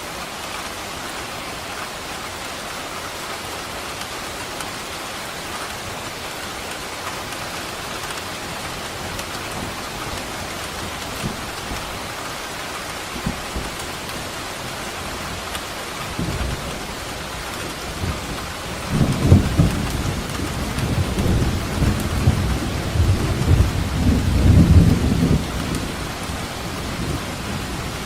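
Steady heavy rain falling, with a long rolling rumble of thunder that builds about halfway through, peaks near the end and fades.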